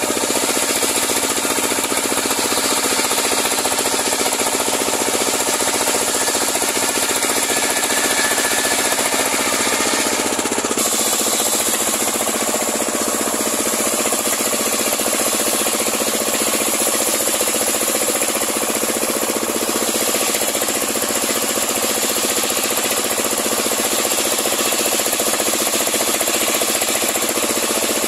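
Homemade circular sawmill running steadily, its engine-driven blade ripping a large pule log lengthwise. The tone changes about ten seconds in.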